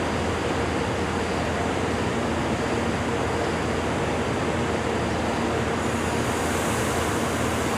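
Amtrak P42DC diesel-electric locomotives running steadily as a passenger train departs the station, with a higher hiss joining about six seconds in.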